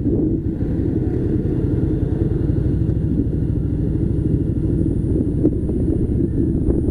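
Harley-Davidson Softail Slim's V-twin engine running steadily under way, a constant low rumble with no revving.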